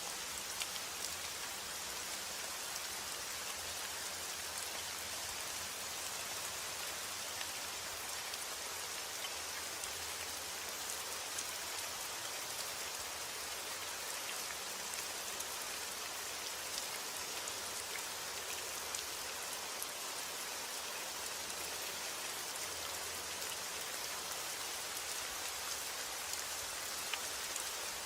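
Steady rainfall: an even hiss of rain with many small drops tapping distinctly on a surface.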